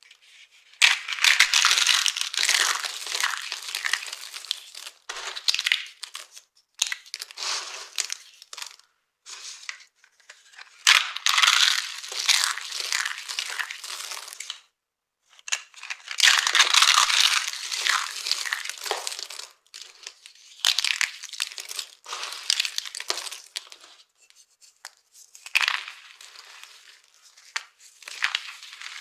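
Dry soap being crushed, crunching in a series of bursts separated by short silences, the longest and loudest of them about a second in, around twelve seconds in and around seventeen seconds in.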